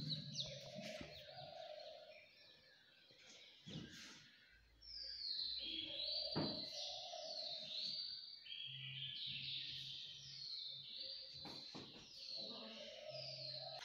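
Birds singing: many repeated high sweeping notes, busiest from about five seconds in, with a lower call twice.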